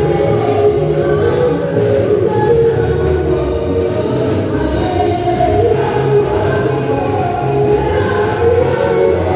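Church choir singing a gospel song over an accompaniment with a steady, stepping bass line.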